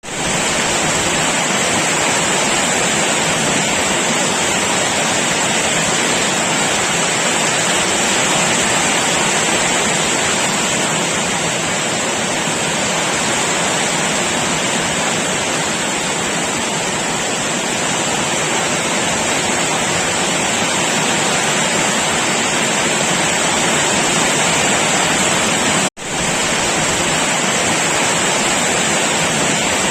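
Heavy rain falling steadily as an even, constant rushing hiss. It cuts out for a split second about 26 seconds in.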